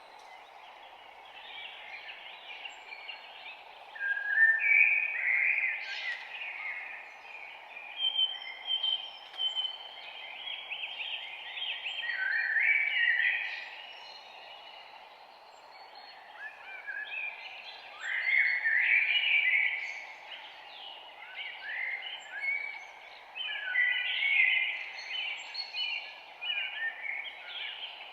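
Several songbirds chirping and singing in overlapping phrases, coming in clusters with a brief lull partway through, over a steady low background hiss.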